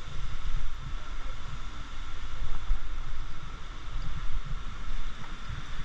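Wind buffeting the microphone in uneven gusts over the steady rush of Mooney Falls.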